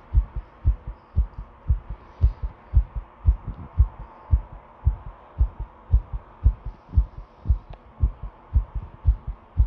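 A person's heart beating fast and strong, each beat a low lub-dub double thump, a little under two beats a second, with a faint steady hum underneath.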